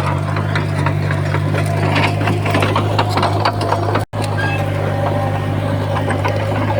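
Komatsu bulldozer's diesel engine running steadily, with many sharp clanks and knocks from its tracks and the soil and stones it is pushing. The sound drops out for an instant about four seconds in.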